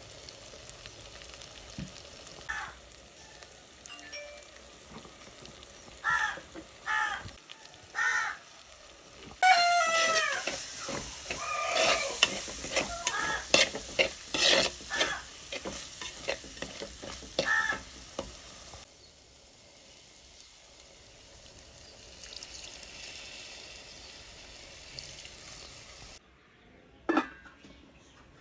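Tomato-and-spice masala frying in an earthenware pot, with a metal spoon stirring and scraping against the clay in quick repeated strokes for several seconds. Near the end there is a single clank as a steel lid goes on.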